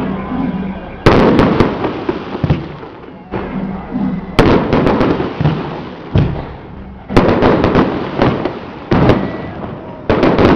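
Firecrackers and fireworks going off: a run of loud sudden bangs, roughly one a second, each trailing into dense crackling.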